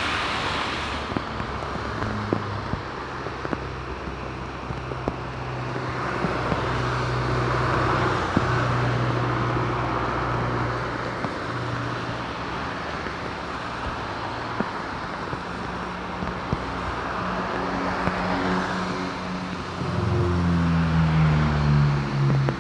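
Steady engine rumble with a low hum, scattered light ticks and a noisy background. Near the end it grows louder and the hum falls in pitch.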